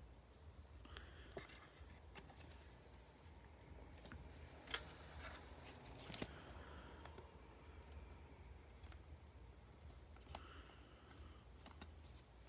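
Faint handling of trading cards and foil packs: quiet rustling with a few soft clicks and snaps, the sharpest nearly five seconds in, over a low hum.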